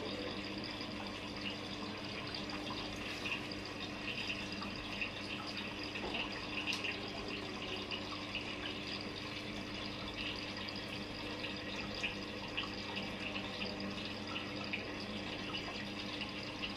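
Water running steadily, with fine splashing and a steady low hum underneath.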